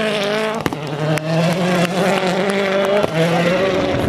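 World Rally Car's turbocharged four-cylinder engine held at high revs with small wavers in pitch and a brief lift about three seconds in, with scattered sharp clicks.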